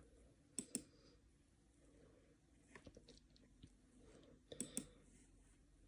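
Faint computer mouse clicks over near silence: a quick double click about half a second in, a few light ticks around three seconds, and another quick pair near the end.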